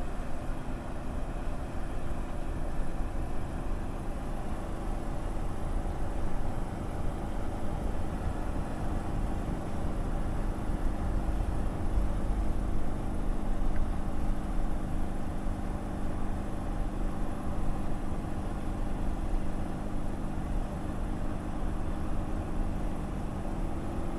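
Steady engine hum and road rumble of a vehicle cruising along a highway, heard from inside the cab.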